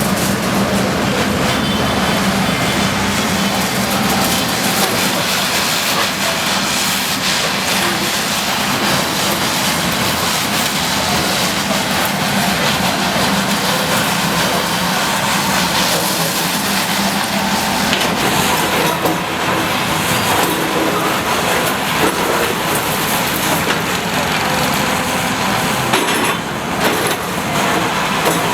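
Bulldozer working on demolition: a loud, steady mix of engine noise and clattering.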